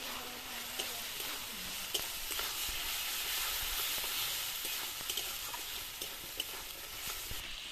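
Spiced masala with freshly added green peas sizzling in a kadai while a spatula stirs and scrapes through it, with a few light knocks of the spatula against the pan over a steady frying hiss.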